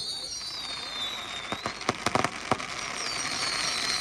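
Fireworks display: several high whistles falling slowly in pitch over a steady crackle, with a few sharp bangs in the middle.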